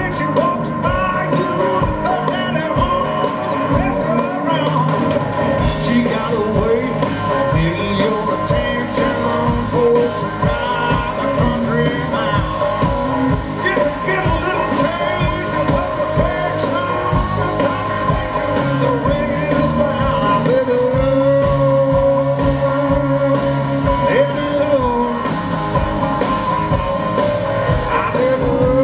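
Live blues-rock band music led by electric guitar, with a voice singing over it.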